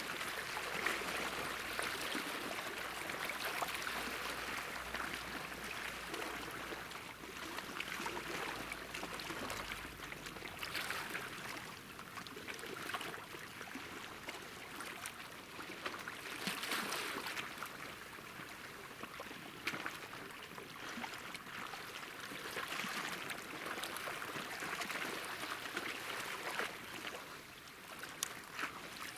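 Calm sea lapping at the shore, water washing and trickling in small waves that swell up every several seconds.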